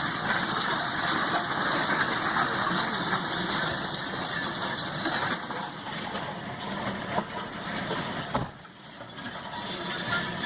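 Motor vehicle engine and road noise running steadily, with a sharp knock about seven seconds in and a brief drop in level about eight and a half seconds in.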